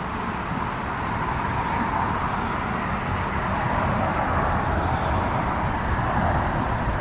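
Wood campfire burning with a steady rushing noise and a low rumble, with only a faint crackle or two.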